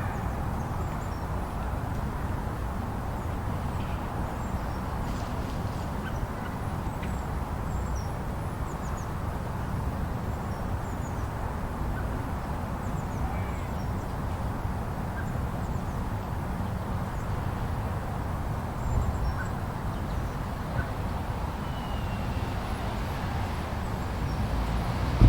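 Steady outdoor background noise, mostly a low rumbling rush, with a few faint short high chirps scattered through.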